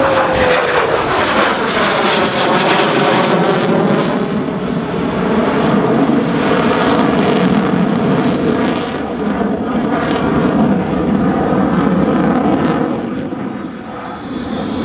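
F-16C fighter jet passing low and pulling up in a rolling pitch-up, its jet engine loud and continuous. A whistle falls in pitch as it goes by, and the tone sweeps and swirls while it climbs and turns away.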